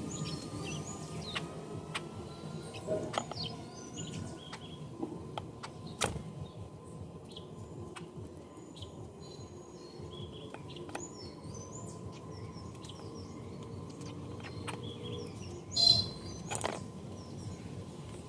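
Birds chirping in short calls over a steady background noise, with a few sharp clicks and one louder short burst near the end.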